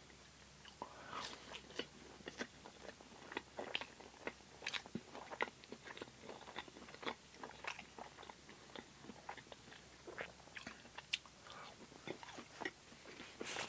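Close-miked chewing of crispy battered vegan fish: a string of sharp, irregular crunches, a few a second.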